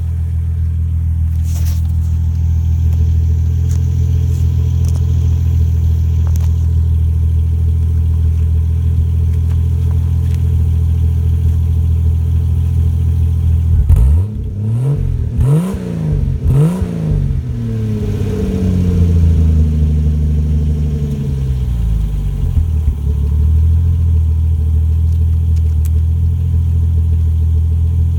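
Toyota Supra's exhaust idling steadily, then about halfway through blipped three times in quick succession, followed by one slower rev that rises and falls before it settles back to idle.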